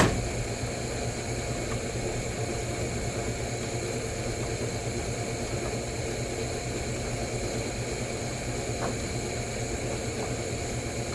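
Steady low hum and hiss of background noise, with a sharp knock at the very start and a few faint clicks as the headlight bulb and housing are handled and refitted.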